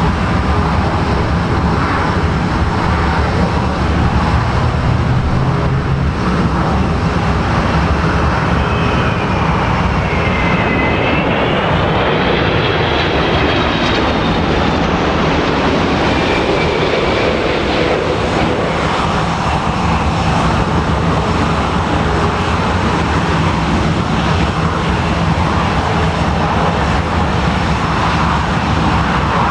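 Boeing 777-200 twin jet engines running steadily and loudly, with a faint whine that dips and rises in pitch around the middle.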